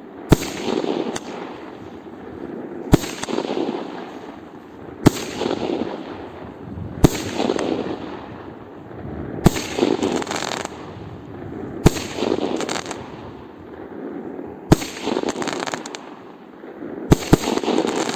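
Fireworks going off: a sharp bang about every two to three seconds, each followed by a crackling burst that lasts a second or so.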